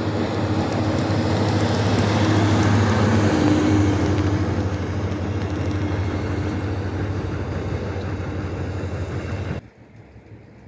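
Road vehicle engine drone and tyre noise, with a low steady hum. It swells to its loudest about four seconds in, eases off, then cuts off suddenly near the end.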